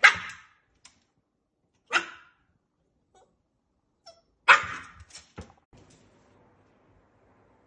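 Norwich terrier puppy barking to be played with: three sharp barks about two seconds apart, the last followed quickly by two shorter ones.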